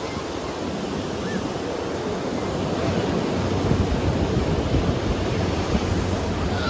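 Ocean waves breaking and washing onto a beach, a steady rush of surf that gets somewhat louder about halfway through.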